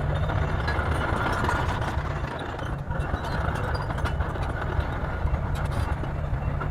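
Bulldozer's diesel engine running steadily with a low rumble.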